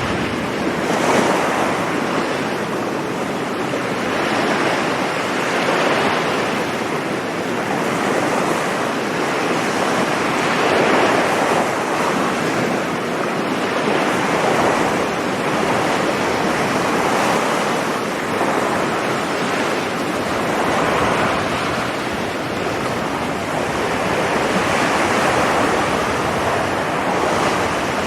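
Sea waves breaking and washing on a sandy beach, a continuous surf that swells and ebbs every few seconds, with some wind noise on the microphone.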